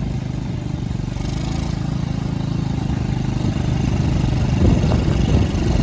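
Go-kart driving over rough ground: a steady low rumble of its motor and wheels that grows slightly louder toward the end.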